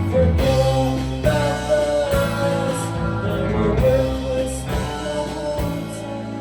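Live rock band playing an instrumental stretch between sung lines, guitar to the fore with bass underneath, the chords changing every second or so.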